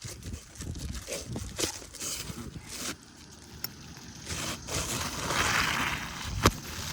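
Scraping and rustling of an asphalt roof shingle being worked loose for removal, with irregular clicks and a sharp knock near the end.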